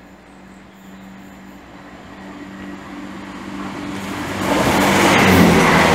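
Class 165 Networker Turbo diesel multiple unit approaching and running through a station without stopping. A steady engine drone grows louder, then the rush of the train passing close by comes in about four and a half seconds in.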